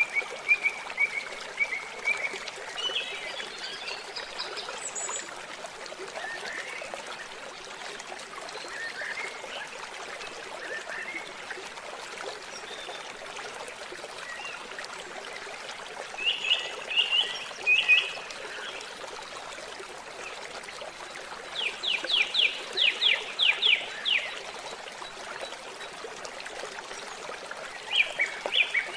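Water trickling steadily, with birds calling over it: scattered chirps in the first few seconds, a few short phrases a little past halfway, then a rapid run of about a dozen short, sharp calls and another run at the very end.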